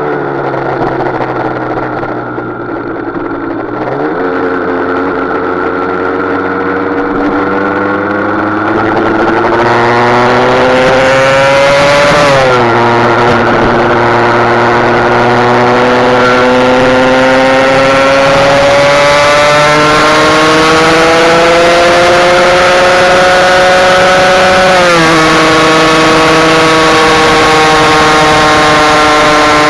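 Husqvarna SM 125's two-stroke single-cylinder engine pulling hard on a ride. The revs climb slowly in each gear and drop sharply at two upshifts, one a little before halfway and one near the end. Wind rush grows as the speed builds.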